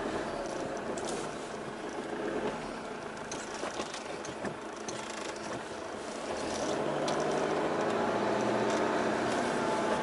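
Engine of a 4x4 driving over sand dunes, heard from inside the cabin, with light rattles and clicks. It eases off about two seconds in and grows louder again about six and a half seconds in as it pulls harder.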